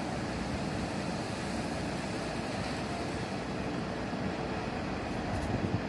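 Steady low rumble of a running vehicle engine, with a faint steady hum.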